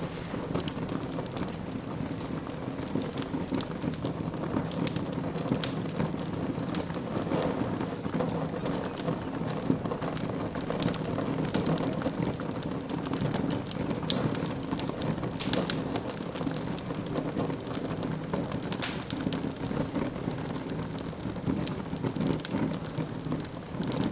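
Wood fire burning in a fireplace, crackling steadily with frequent sharp pops over a soft rushing hiss; one louder pop about halfway through.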